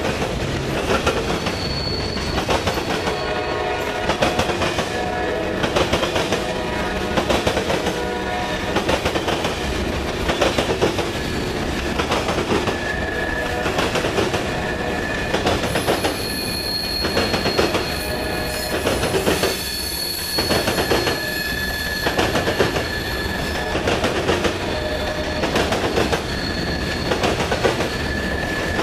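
Freight cars of a long freight train rolling past, their wheels clattering over the track in a regular rhythm of about one heavy clack every second and a half over a continuous rumble. Thin, high steel-on-steel wheel squeal comes and goes, strongest in the second half.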